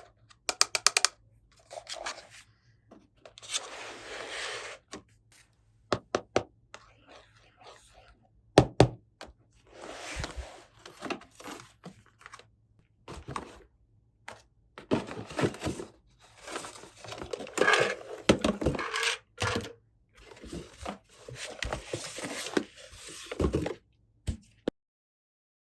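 Small plastic toy pieces being unpacked and handled: scattered clicks, knocks and thunks, with stretches of rustling and scraping.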